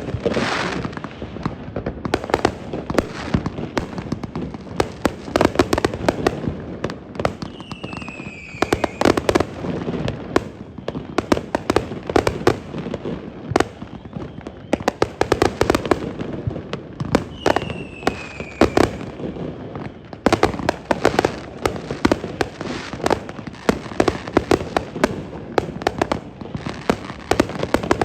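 Fireworks display: a dense, continuous run of bangs and crackling reports, with a falling whistle twice, about eight seconds in and again around seventeen seconds in.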